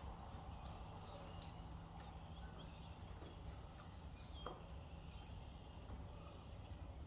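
Faint steady low hum with a few light clicks spread through it, about two seconds apart.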